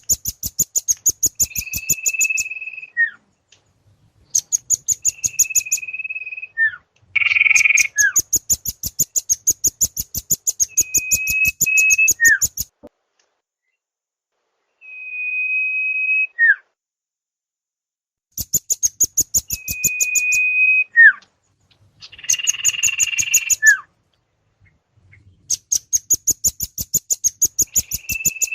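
Bird-lure recording of velvet-fronted nuthatch and sirtu calls. Rapid trains of high, sharp chips, about seven a second, alternate with a level whistled note about a second long that ends in a short falling slur. Twice a rougher, harsher call breaks in, and the sequence repeats as a loop.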